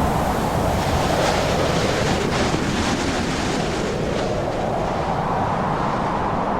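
Storm rain and gusting wind: a dense, steady rushing that slowly swells and eases, with a brief patter of heavier drops a second or two in.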